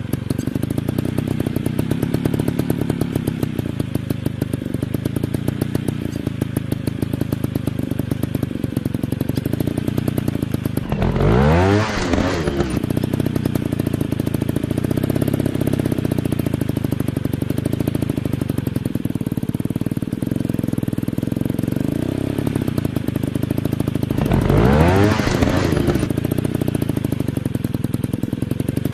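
Dirt bike engines running steadily, with a bike revving up and back down twice, once about a third of the way in and again near the end.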